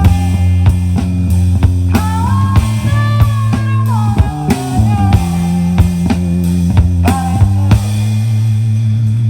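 A live rock band playing: a guitar melody that slides up and down over a held bass and a regular drum beat. Near the end the drums stop, leaving a low chord ringing.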